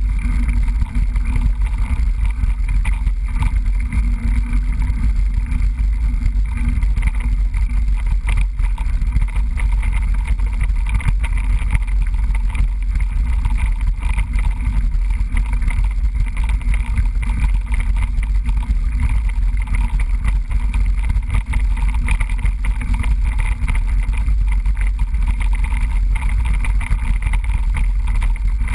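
Steady low wind rumble on a GoPro microphone, mixed with the constant rattling and jolting of a mountain bike riding over a rough trail.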